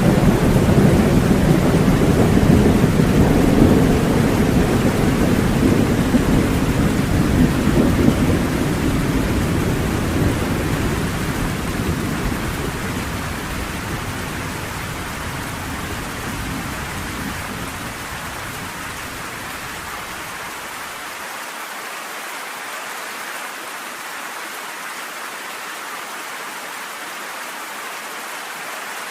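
A long roll of thunder rumbles over heavy rain and slowly dies away over the first fifteen to twenty seconds. It leaves a steady hiss of falling rain.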